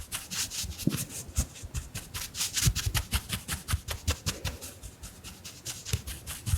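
Round makeup brush swept rapidly back and forth against the microphone, about five or six bristly strokes a second, with soft low bumps among them.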